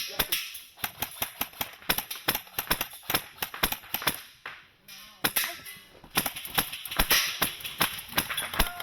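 Airsoft rifles firing, sharp snapping shots in irregular bursts, with a lull of about a second near the middle.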